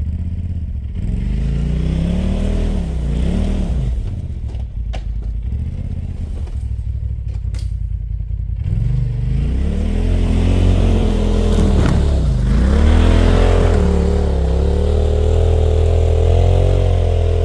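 Polaris RZR side-by-side's engine revving up and falling back twice, then held at high revs for several seconds while it climbs a steep snow-covered hill with its tires spinning for grip.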